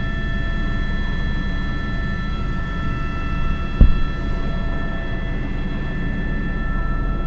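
Airbus H125 (AS350 B3) single-turbine helicopter in flight, heard from the cockpit: a steady low rotor drone with a steady high turbine whine above it. A short, sharp thump about four seconds in.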